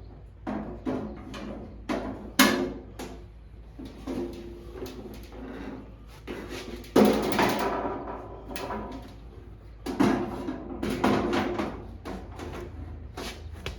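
Lawn tractor parts being handled and fitted by hand: a string of knocks, clicks and rattles, with a sharp knock about two seconds in and longer spells of clattering around seven and ten seconds in.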